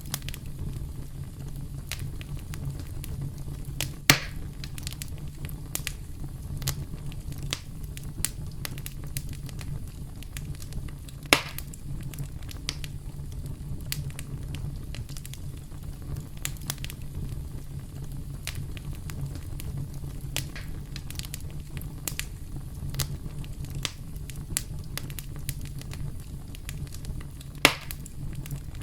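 Campfire burning steadily with a low rumble and irregular crackles and pops, three of them much sharper and louder: about four seconds in, near the middle, and near the end.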